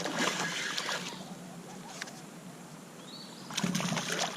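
Water noise and kayak handling sounds with scattered light clicks and knocks while a hooked smallmouth bass is played from the kayak, quieter in the middle and busier again near the end.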